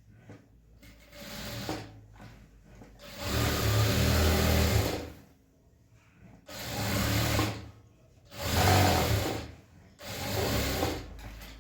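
Sewing machine running in stop-start runs: a short one about a second in, then four longer runs of a second or two each, with pauses between as the fabric is guided.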